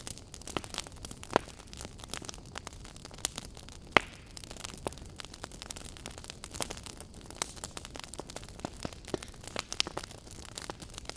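Campfire burning, wood crackling and popping at irregular moments over a low steady hiss, with one sharper pop about four seconds in.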